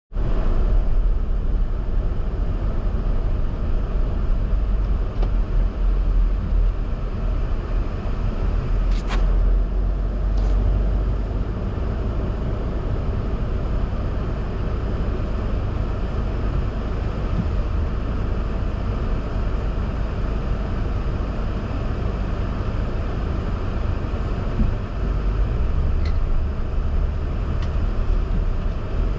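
A car driving: a steady low rumble of engine and road noise, with two sharp clicks about a third of the way in.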